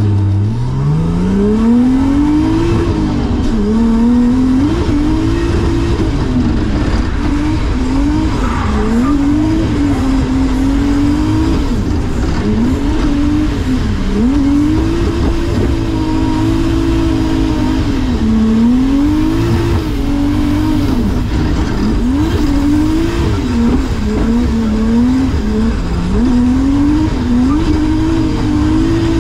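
Drift car's engine revved hard and let off over and over during a drift run. Its pitch climbs, drops and climbs again every couple of seconds, and holds high near the end.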